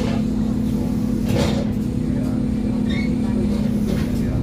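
Scania OmniCity N230UD double-decker bus's five-cylinder diesel engine running at steady revs under way, a loud steady drone over low rumble, with a brief clatter about a second and a half in.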